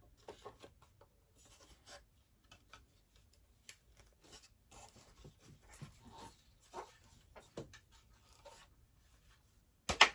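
Faint rubbing and small ticks of hands working on a doll high chair while glue is worked into its loose joints, with a few sharper knocks near the end as the parts are pressed together.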